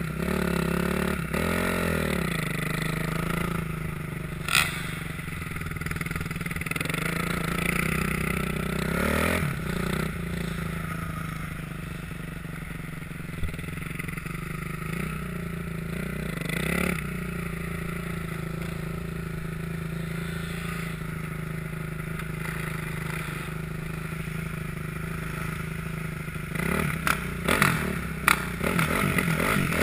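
Dirt bike engine running steadily, its revs swelling and falling back briefly a few times, with a cluster of clattering knocks near the end.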